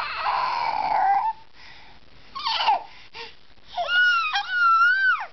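Baby making a scratchy, sucking-in sound with her voice for about a second, then a short falling squeak and a longer high-pitched squeal that drops at the end. This is the sound she makes after filling her diaper.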